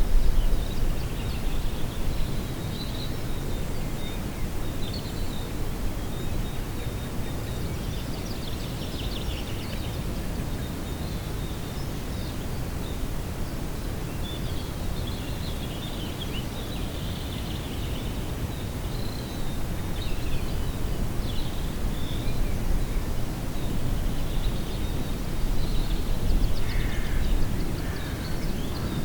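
Outdoor lakeside ambience: many small songbirds chirping and warbling throughout, with a few falling notes near the end, over a steady low rumble of wind on the microphone.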